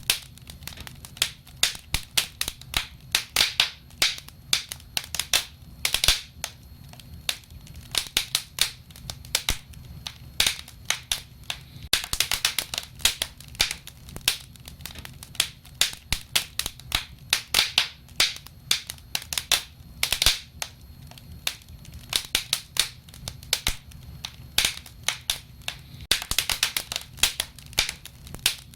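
Wood fire crackling: a quick, irregular run of sharp pops and snaps over a low, steady burning rumble.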